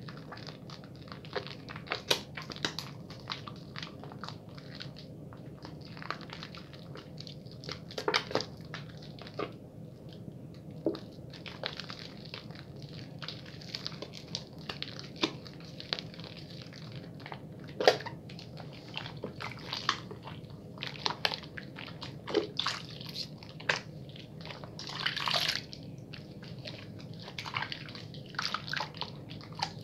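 Bar soap being lathered in wet hands: irregular wet squishes and small clicks of soapy skin and suds, with a steady low hum underneath.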